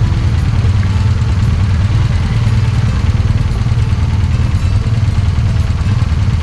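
Small boda boda motorcycle taxi engine running steadily while under way, with a heavy low rumble of wind on the microphone.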